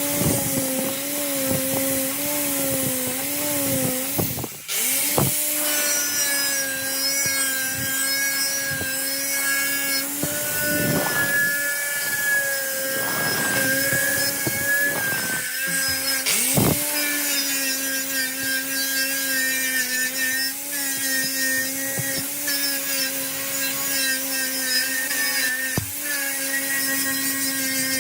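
Electric power tool's motor running steadily while it works against metal, with rubbing and scraping noise over the motor hum. The tool stops briefly about four and a half seconds in, then runs on.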